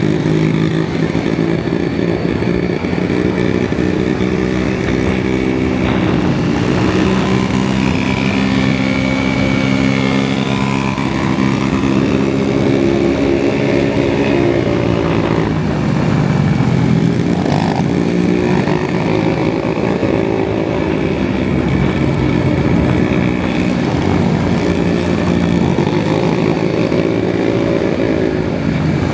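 KTM 790 Adventure's 799 cc parallel-twin engine riding under way. Its note rises and falls with throttle and gear changes, and drops briefly about six, sixteen and twenty-four seconds in.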